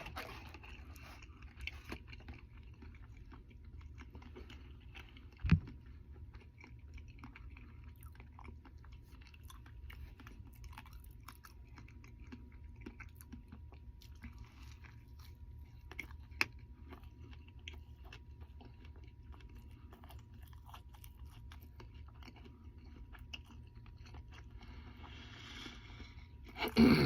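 A person chewing and biting into a Double Big Mac with diamond grillz in, with small wet crackles and clicks of chewing throughout. A single thump comes about five and a half seconds in, over a steady low hum.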